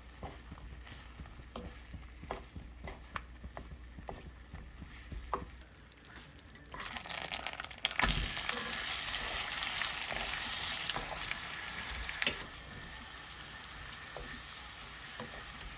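Light clicks and knocks of kitchen utensils, then food sizzling in a hot pan. The sizzle starts about seven seconds in and gets suddenly louder about a second later, as if more food goes into the pan. It settles to a steadier sizzle a few seconds before the end.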